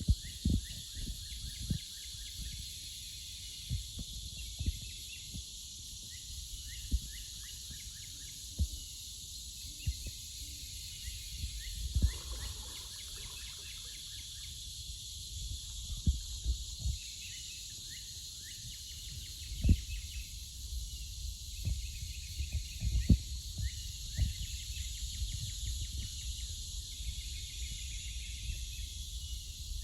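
Steady high buzzing chorus of cicadas, with songbirds chirping repeatedly over it. Scattered dull low thumps are the loudest sounds.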